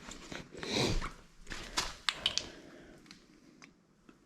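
Hand-handling noises at a workbench: a short rustle about a second in, then a few light clicks and taps of small parts and the oil bottle being handled, going quieter toward the end.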